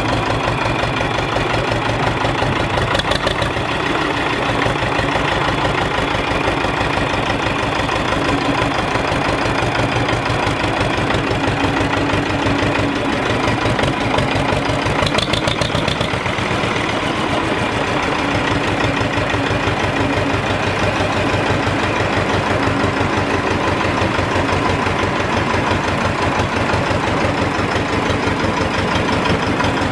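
Tractor engine idling steadily, with a fast, even knock.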